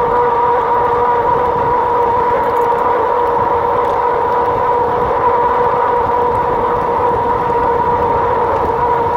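Wind buffeting the camera microphone while riding an electric fat-tire bike: a loud, steady rush, with an unchanging two-note whine underneath.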